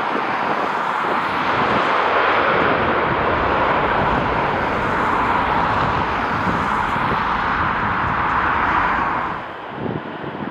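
Steady jet airliner engine noise from a passing aircraft, dropping away sharply near the end.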